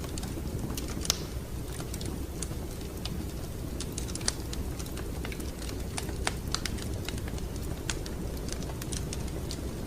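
Wood fire crackling in a fireplace: irregular sharp pops and snaps over a steady low rumble, with the loudest snaps about a second in and again around four seconds.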